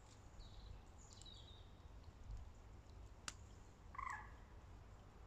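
Near silence over a low rumble, with faint high bird chirps, a single sharp click about three seconds in, and a short bird call about four seconds in.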